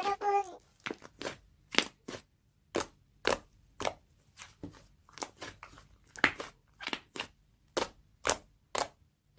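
A series of short, sharp crunches, about twenty of them at uneven spacing, roughly two a second.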